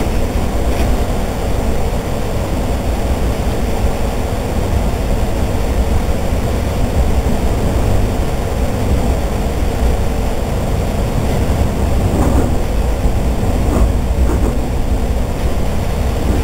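Cabin noise of a regional train running at speed: a steady low rumble of wheels on track, with a few faint clicks near the end.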